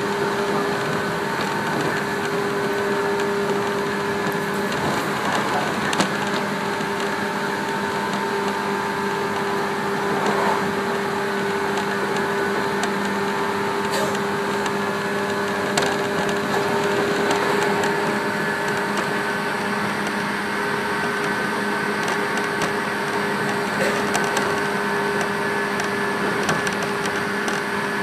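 Cabin noise of a 115-series electric train running at steady speed: a steady drone carrying a few held tones that do not change in pitch, with several sharp clicks from the running gear.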